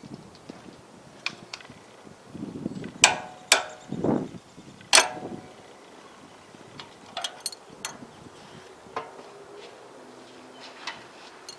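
Scattered sharp clicks and knocks of hand tools and metal parts being handled, the three loudest coming close together about three to five seconds in, with brief rustling and a few lighter clicks later.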